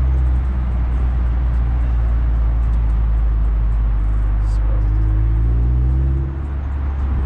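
Mazda Miata's four-cylinder engine pulling the car along at low speed, heard from the open-top cockpit. The engine note climbs steadily from about four seconds in, then drops away just after six seconds as the throttle eases off.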